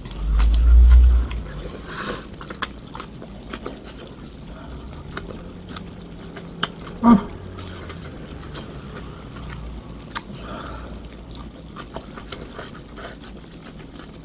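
Close-up wet eating sounds from a person chewing a spoonful of food: small clicks and smacks from the mouth. A loud low rumble comes in the first second or so, and a short hum-like vocal sound about seven seconds in.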